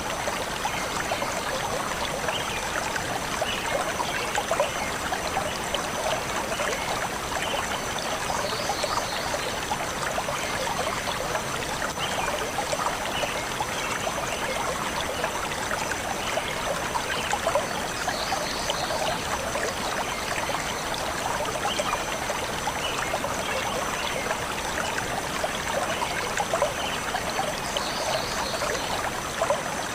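A forest stream running steadily over stones, with a short burst of bird chirping about every nine to ten seconds.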